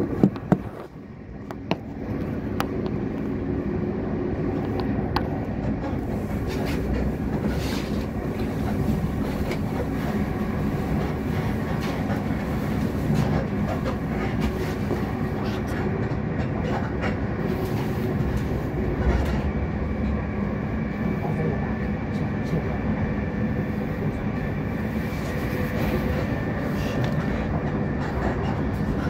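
Class 458/5 electric multiple unit running along the line, heard from inside the carriage: a steady rumble of wheels on rail with a faint motor hum and occasional rail-joint clicks, after a few sharp knocks in the first two seconds.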